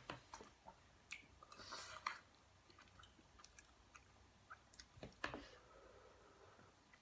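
Faint close-up eating sounds: chewing with scattered small clicks, and two short louder noisy stretches, about one and a half seconds in and again about five seconds in.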